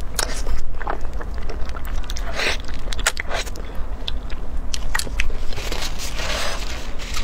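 Close-miked eating: a person biting and chewing a mouthful of food, heard as irregular clicks and crunches from the mouth.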